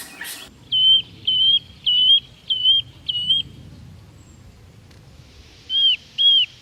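A bird calling in a series of short, clear, whistled notes: five about half a second apart, a pause, then three more near the end.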